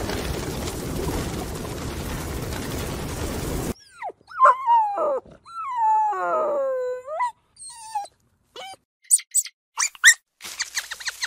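A steady rushing noise that cuts off suddenly, then a dog whining and howling in long, falling, wavering calls, then a few short high squeaks near the end.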